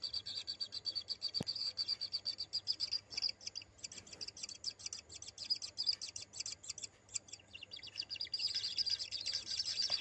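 Kingfisher nestlings in the nest burrow giving a fast, high-pitched chittering of many short notes a second, with a single sharp click about a second and a half in.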